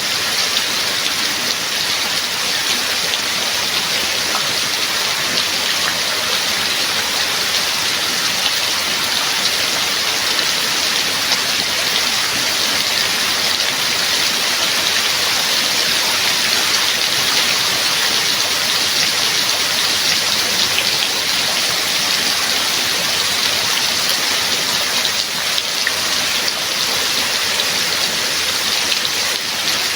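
Steady rain falling and pattering on surfaces, an even hiss of many small drop impacts with no let-up.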